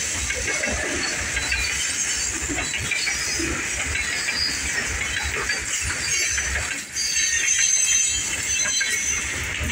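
Freight train's steel-wheeled hopper cars rolling past close by on a curve: a steady low rumble of wheels on rail, with high, wavering wheel squeal from the flanges grinding through the curve.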